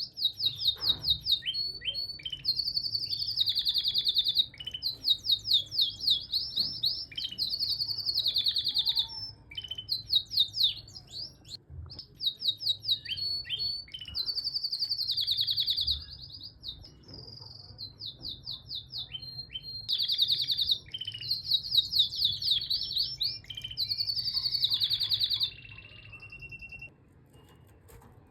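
Male canary singing: a long song of fast trills and rolling phrases of rapidly repeated high notes, broken by short pauses.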